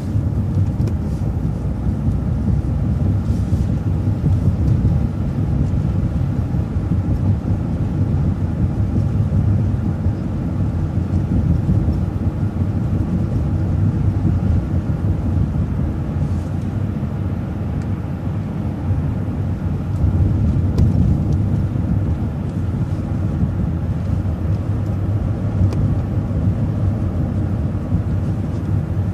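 City transit bus driving along between stops: a steady low engine drone and road rumble, heard from inside the bus.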